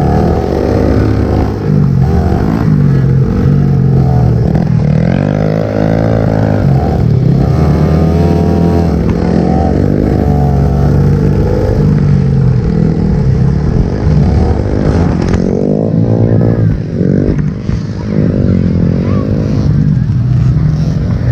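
Small 50cc motocross dirt bike engines revving up and down over and over, the pitch climbing and dropping every second or two as the throttle is worked through the race.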